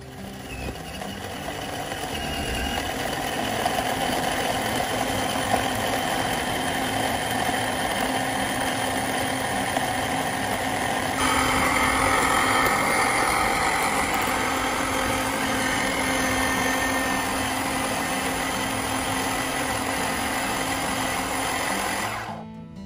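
Electric mini food chopper running, its blade chopping fresh chillies, onion, lemongrass, kaffir lime leaves and garlic into a coarse spice paste. The motor noise is steady and builds over the first few seconds. It changes sound abruptly about halfway through and cuts off near the end.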